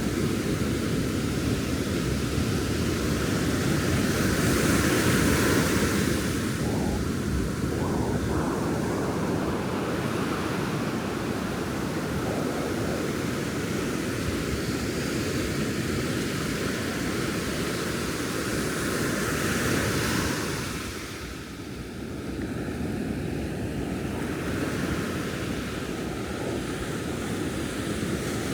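Ocean surf breaking and washing up a sandy beach as a continuous rushing noise, swelling with larger waves about five seconds in and again around twenty seconds, with some wind.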